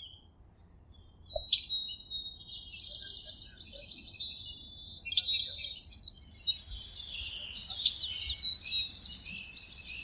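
Several birds singing and chirping together: high trills and quick down-slurred notes, starting about a second and a half in and thickest midway.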